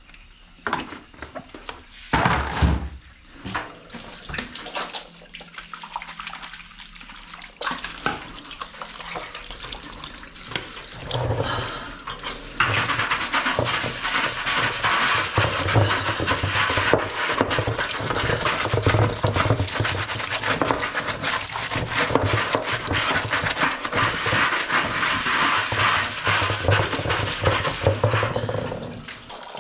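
Light knocks and handling, then a steady rush of running water rinsing washing-machine parts starts suddenly a little before halfway and stops shortly before the end.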